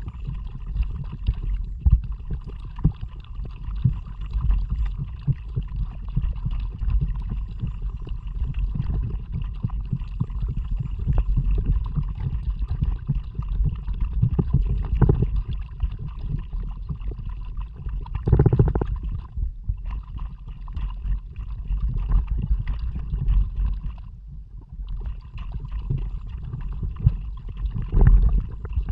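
Kayak paddling: paddle strokes splashing and water sloshing against the hull, over a constant low rumble on the action camera's microphone, with a louder splash about eighteen seconds in.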